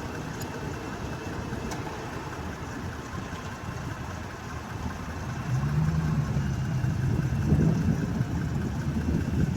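2022 Jeep Grand Cherokee idling with the air conditioning on while its system, low on refrigerant, is recharged from a can. About five and a half seconds in, a louder low hum comes in over the steady running.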